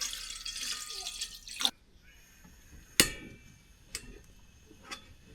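Water pouring into a camping pot for about two seconds, setting water on to boil, then a sharp knock of cookware about three seconds in and a couple of lighter clicks.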